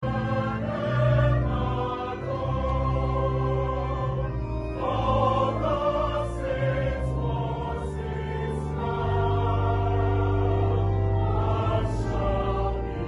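Choir singing a hymn in sustained chords over a steady bass accompaniment.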